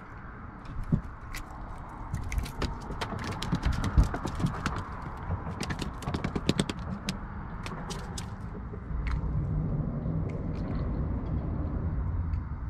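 A caught small bluefish being handled on a wooden dock: a run of quick clicks and knocks over a steady low rumble, which gets louder about nine seconds in.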